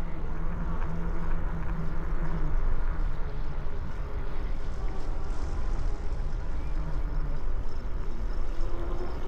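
Wind rumbling on the microphone and tyre noise from a moving bicycle, with a steady low hum for the first two and a half seconds.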